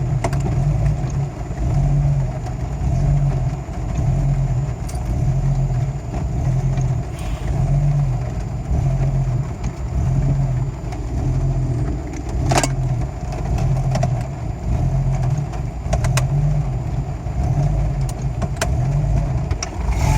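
Jeep Cherokee XJ's 4.0-litre inline-six idling roughly, its note swelling and sagging in a regular cycle about every second and a half, with one sharp click about twelve seconds in. The owner wonders whether the downstream O2 sensor wiring, torn up by the driveshaft, is the cause.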